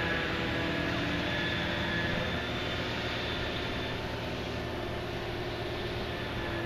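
Heavy machinery of the Liebherr P995 backhoe dredger running steadily: a low drone with a few steady higher whining tones over it, easing slightly in level about two seconds in.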